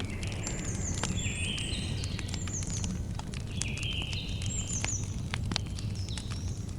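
Campfire crackling, with scattered sharp pops over a low steady rumble. Over it an animal calls again and again, about every second or so; each call is a short buzzy note followed by a high falling chirp.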